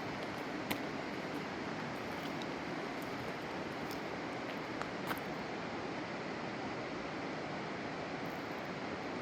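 Steady rushing of a river flowing below, with a few faint clicks.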